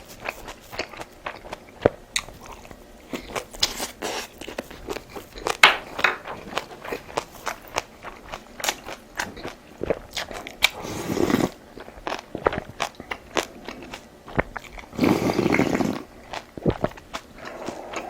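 Close-miked chewing and crunching of food: a stream of small wet clicks and crunches, with two longer, louder noisy stretches, one about ten seconds in and one about fifteen seconds in.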